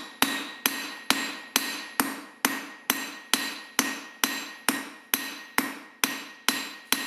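Blacksmith's hammer striking hot steel on the anvil in a steady rhythm, about two blows a second, each with a short metallic ring. The rounded face of the hammer is forging down a corner of the bar.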